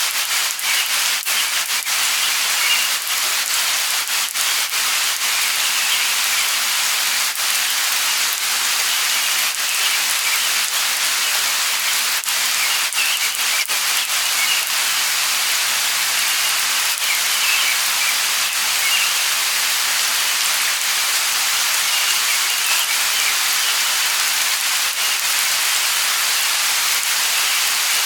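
Light rain falling steadily, with many separate drops ticking close by and faint high bird chirps now and then.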